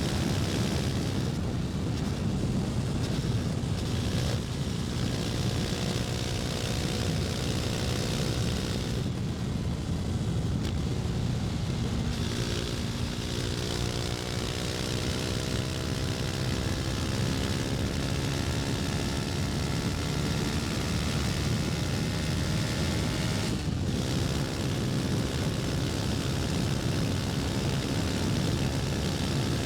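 KTM 250 Duke's single-cylinder engine running steadily under way, its pitch rising through the middle as it pulls harder, with a brief dip about 24 seconds in.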